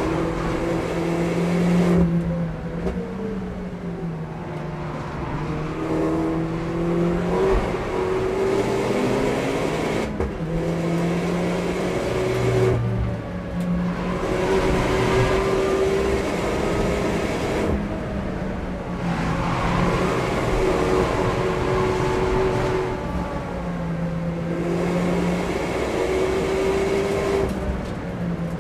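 In-car sound of an Opel Corsa OPC's turbocharged 1.6-litre four-cylinder engine with a full exhaust, pulling hard at high speed under load. Its pitch dips and climbs again several times as the car goes through the corners.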